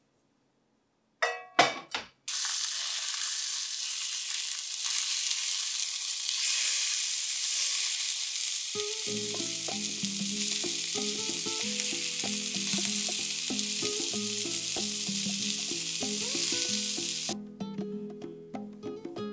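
Pork slices, pumpkin wedges and pumpkin skin sizzling loudly as they fry in a pan. A couple of sharp clatters come just before, background music joins about halfway through, and the sizzle cuts off suddenly near the end.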